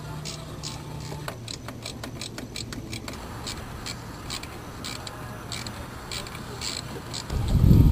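Ratchet wrench clicking as it is worked on the manifold bolts: a quick run of clicks, then a steady series of about three clicks a second. A loud low sound comes in near the end.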